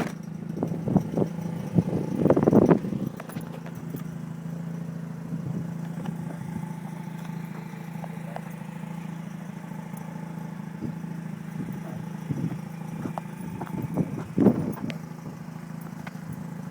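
2004 Mazda RX-8's twin-rotor Renesis rotary engine idling steadily, with a few knocks and thumps over it, loudest about two seconds in and again near the end.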